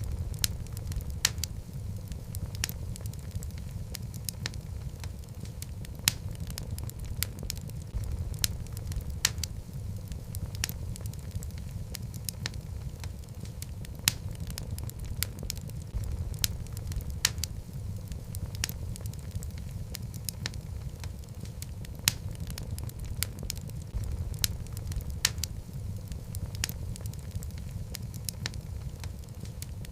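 Wood logs burning in a fireplace, crackling: a steady low rumble of flames with frequent irregular sharp pops and snaps.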